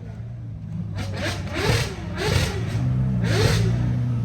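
Car engine idling with three quick throttle blips, the revs shooting up and dropping straight back each time.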